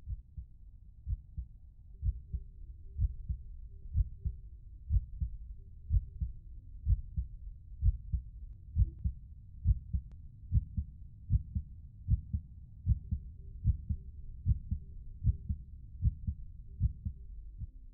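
Heartbeat, low, muffled thumps coming in lub-dub pairs at a steady pace of about one beat a second.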